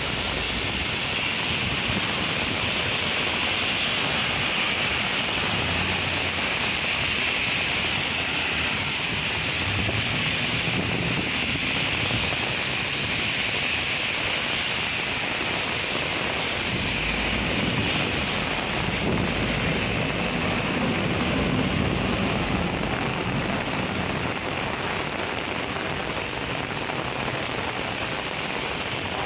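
Heavy rain pouring down onto a wet street in a steady hiss, with cars driving through the water on the pavement. A deeper rumble swells about two-thirds of the way through, then eases.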